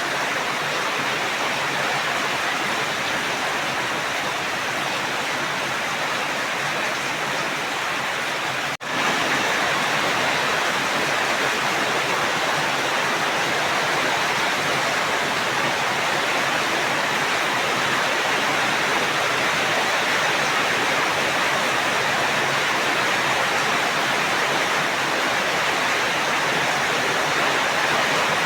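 Steady heavy rain, an even unbroken hiss. About nine seconds in it drops out for a split second, then comes back slightly louder.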